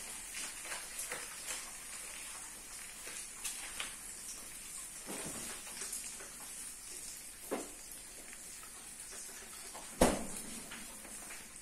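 Pancakes and egg frying in nonstick pans on a gas stove: a soft, steady high sizzle, with scattered small clicks and a sharp knock about ten seconds in.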